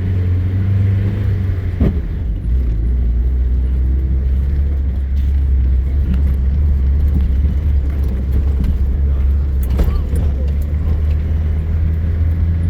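Vehicle driving off-road, its engine and tyres making a steady low drone, with a few brief knocks or rattles, about two seconds in and again near ten seconds.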